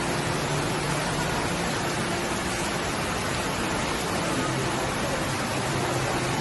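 Water fountain splashing and falling steadily, an even rushing sound.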